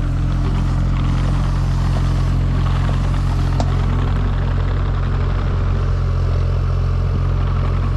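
Engine of a farm machine running steadily, a low, even drone with a rattle over it; its note shifts slightly at the start.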